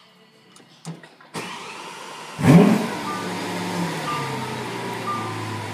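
Lamborghini Aventador LP700-4 Roadster's V12 starting: a click, about a second of starter cranking, then it fires with a loud rev flare about two and a half seconds in that falls away to a steady idle. A short electronic beep sounds about once a second over the idle.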